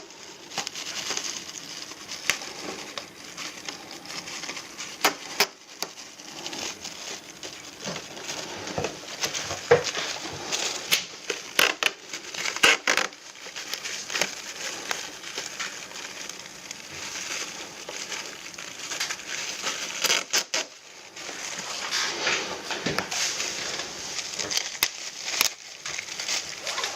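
Irregular sharp clicks and knocks over a continuous rustling, crackling noise, as of things being handled.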